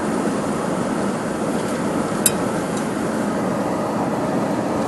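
Steady road and wind noise inside the cabin of a 1993 Toyota 4Runner coasting downhill in neutral at highway speed. A sharp click comes about two seconds in.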